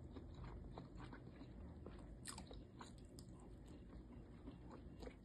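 Faint close-up chewing and eating of siomai dumplings, with small wet mouth clicks over a low hum; a sharper click about two seconds in.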